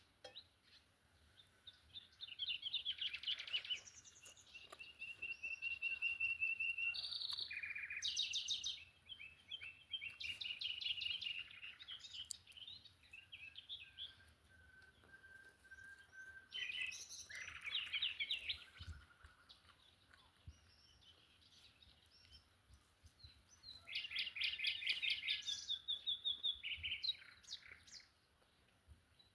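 Songbirds singing in bouts of rapid, repeated trilled notes, with quieter pauses between phrases.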